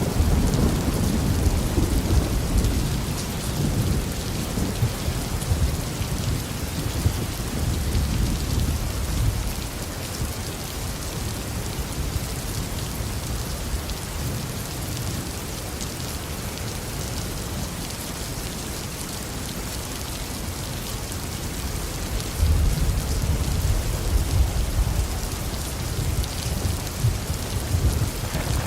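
Steady tropical rain falling, with rolling thunder rumbling low in the first several seconds, fading away, and a new roll of thunder building near the end.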